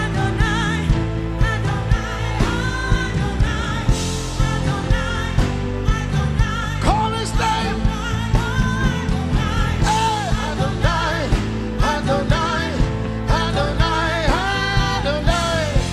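Live worship music: many voices singing with a band over a steady drum beat.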